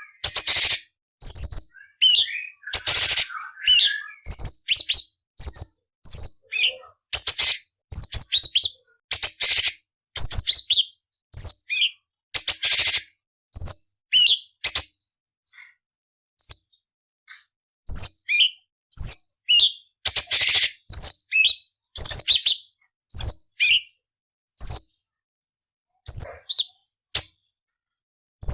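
Orange-bellied leafbird (cucak cungkok) singing: a fast string of short, sharp chirps and whistles, broken by harsh, scratchy rasping bursts and a few brief pauses.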